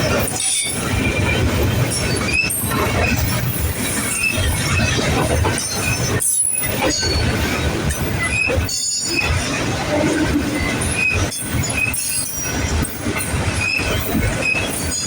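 Manifest freight train rolling past close by: steady rumble and rattle of cars on the rails, with short high-pitched wheel squeals coming and going throughout.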